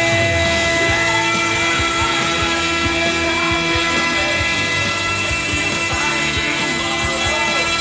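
Rock music over the steady high whine of a CNC router spindle cutting plywood; one low tone in the whine drops out about halfway.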